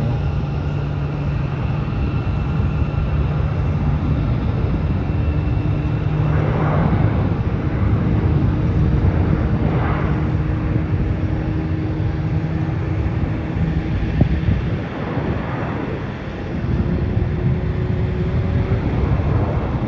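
Jet engines of a Boeing 737-800 airliner at the runway for takeoff, a steady low rumble with a faint hum, swelling slightly midway.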